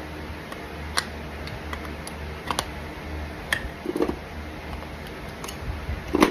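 Farrier's hand tools working on a horse's hoof: a few sharp, irregular clicks and snips, about a second or more apart, with a heavier knock near the end, over a steady low hum.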